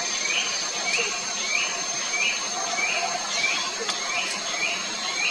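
A forest bird repeating a short rising call note, about three every two seconds, over a steady high insect whine.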